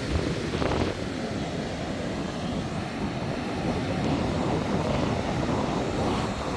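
Low, rumbling wind noise buffeting the microphone, steady throughout with no distinct pitched sound in it.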